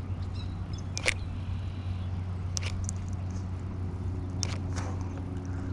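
Steady low hum of a boat's electric trolling motor, joined by a faint higher tone about four seconds in, with a few short sharp clicks scattered through it.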